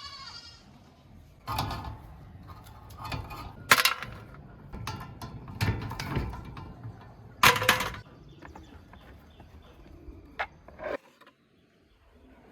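A series of knocks, clanks and scrapes from metal parts being handled on a work surface, two of the clanks much louder than the rest, one of them ringing briefly.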